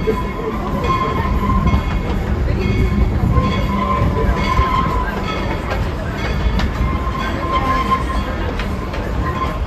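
Narrow-gauge steam passenger train running, heard from aboard its cars: a steady rumble of wheels on the rails with some clacking, and a thin high tone that comes and goes.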